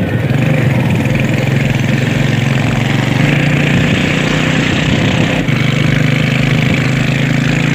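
Kawasaki motorcycle engine running at steady revs, its pitch holding level throughout.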